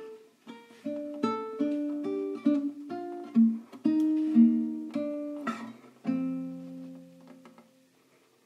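Acoustic guitar playing a short picked interlude between sung lines: a run of single plucked notes, then a chord about six seconds in that rings out and fades away.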